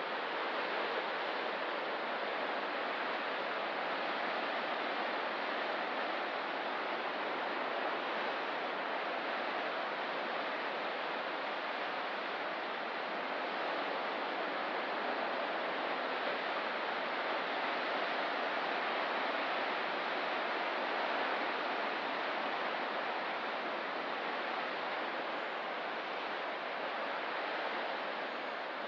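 Ocean surf: a steady, even rush of breaking waves, with only slight swells in level and no single wave standing out.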